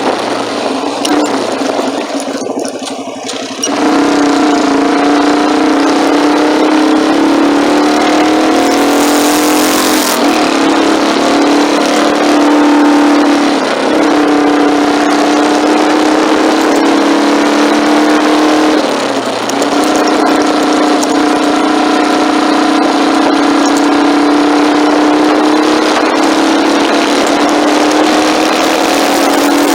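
Motorcycle engine running at a steady road pace under a haze of wind and road noise. It is quieter for the first few seconds, then its note holds steady, dipping briefly twice midway.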